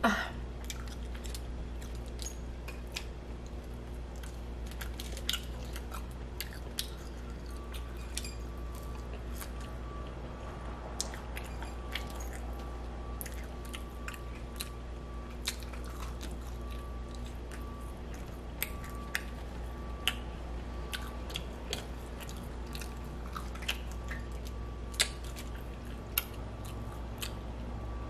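A person chewing and biting food close to the microphone, with many short sharp clicks scattered throughout, over a steady low hum.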